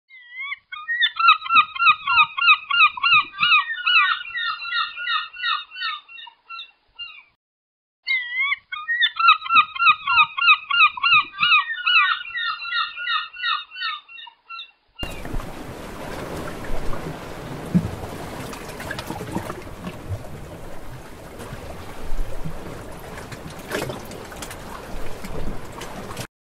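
Gulls calling in two long series of rapid, repeated cries, each series fading as it goes. About halfway through the cries stop and a steady rush of sea waves takes over.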